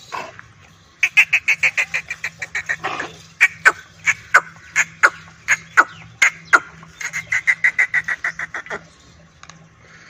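A bird calling: quick runs of short, sharp notes, about eight a second, with louder single notes that drop in pitch, spaced under a second apart, in between. The calling stops about a second before the end.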